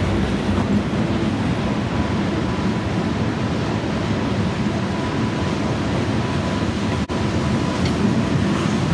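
Freight train of autorack cars rolling past below, a steady continuous rumble of steel wheels on rail. The sound drops out for an instant about seven seconds in.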